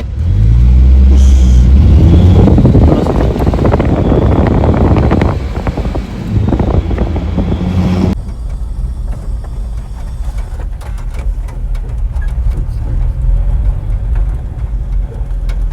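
Motor vehicle engine running and revving, loud and close, with pitch rising and falling over the first eight seconds. It then changes abruptly to a quieter, steady vehicle rumble.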